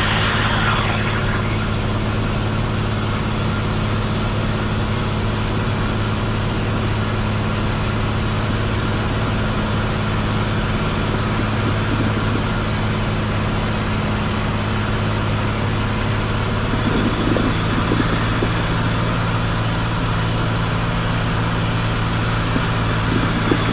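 Cessna 182 Skylane's piston engine and propeller droning steadily in flight, heard inside the cabin.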